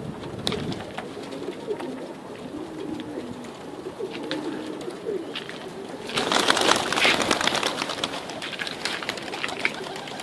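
Domestic pigeons cooing, with scattered light clicks and a louder rustling flurry about six seconds in.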